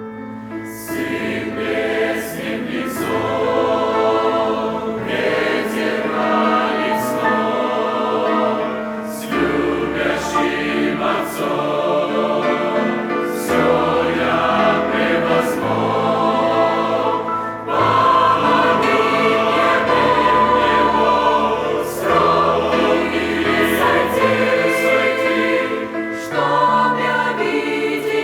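Church choir singing a Russian-language hymn in full harmony, over long sustained low bass notes.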